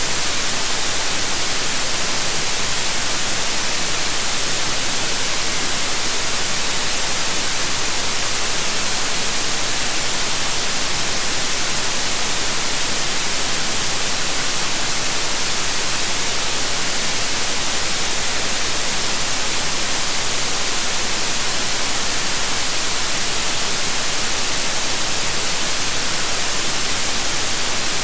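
Steady white noise: an unbroken, even hiss, brightest in the treble, that never changes.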